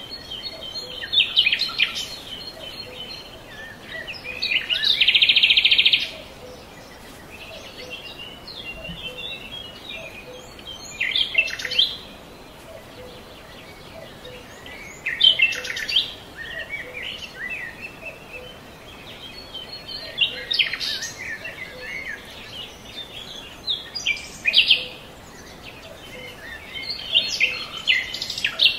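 Songbirds singing: short chirping phrases every few seconds, with a loud, buzzy, rapid trill about five seconds in.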